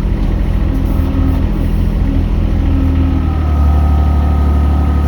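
Mini excavator's engine running steadily, with a higher steady whine joining about three seconds in as the load rises.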